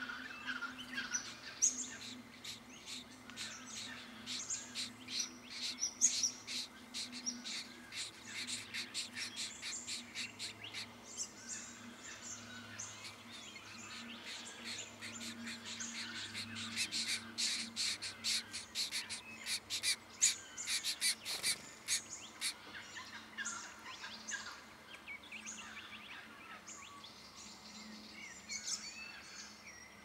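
Small birds chirping: a fast, dense run of short, high chirps that thins out over the last several seconds, over a faint steady low hum.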